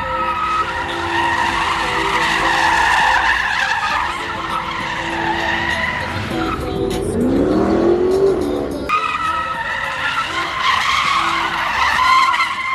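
Car tyres squealing in a sustained burnout, with the engine revving up partway through.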